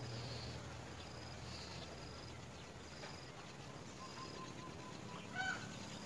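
Insects chirping in a steady, repeated high trill over outdoor hiss. A single short, honk-like bird call comes about five seconds in, the loudest sound.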